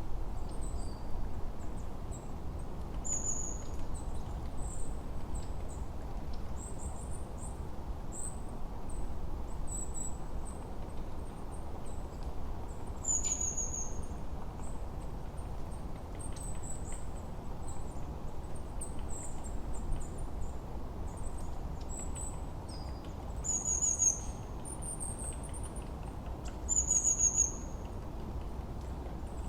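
Songbirds calling in a forest: short, high-pitched chirps that drop in pitch, repeated every couple of seconds, over a steady low background noise.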